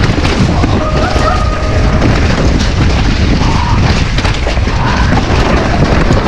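Wind buffeting a helmet or chest camera's microphone, with the rumble, knocks and rattle of a mountain bike riding fast down a wet trail.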